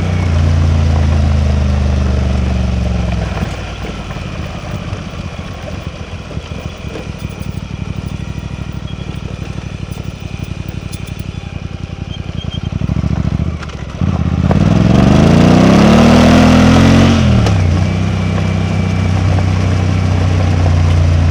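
Suzuki V-Strom 800DE's parallel-twin engine. It runs steadily, falls to a low, lumpy off-throttle or idle beat for several seconds, then is throttled up with a rising pitch into the loudest stretch. The pitch drops sharply at the change and it settles back to steady running near the end.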